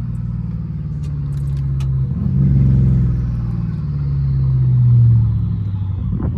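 BMW 550i twin-turbo V8 with catless downpipes and a straight-piped exhaust, driving. The exhaust note swells twice as the throttle is opened, loudest about five seconds in, then eases back.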